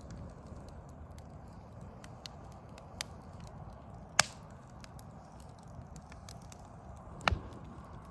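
Wood fire of burning logs crackling, with sharp pops: the loudest about four seconds in and another near the end with a low thump, over a steady low rumble.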